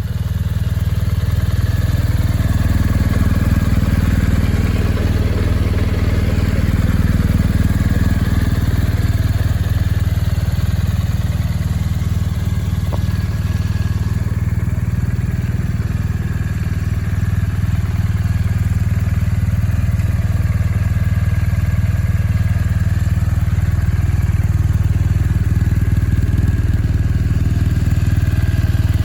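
BMW R 1250 GS's boxer-twin engine idling steadily.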